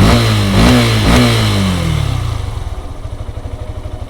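Yamaha FZ single-cylinder fuel-injected engine running with its O2 sensor unplugged: the revs rise and fall a few times, then drop away to a low, pulsing idle. The RPM drops suddenly and fluctuates because the ECU is not getting the sensor's data.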